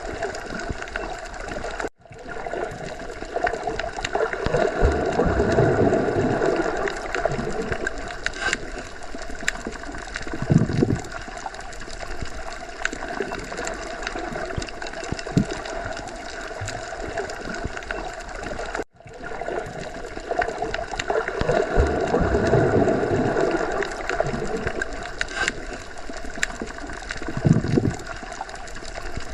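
Underwater ocean ambience: a continuous muffled wash of water with gurgling, slow swells and the odd low surge. The recording runs as a loop of about seventeen seconds, so the same swells come round twice, with a brief dropout at each seam.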